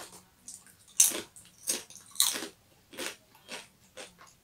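Chewing thin, crispy chips: a crisp crunch with each bite, about six crunches roughly every half second to second.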